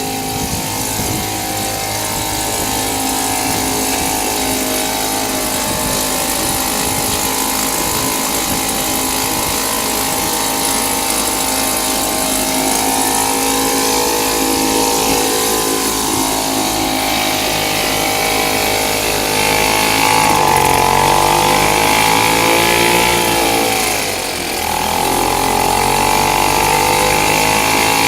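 British Seagull Forty Minus single-cylinder two-stroke outboard motor running on a new replacement ignition coil. It runs steadily, speeds up about two-thirds of the way in, then briefly drops in speed and picks up again.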